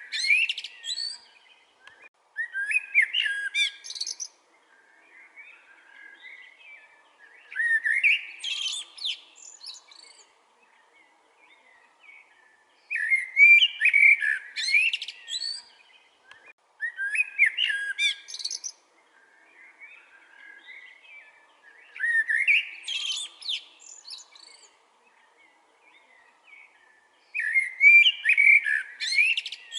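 Common blackbird (Eurasian blackbird) singing: a loud song phrase about every four to five seconds, each a low fluting warble that ends in a high squeaky twitter. Fainter, softer twittering fills the gaps between phrases.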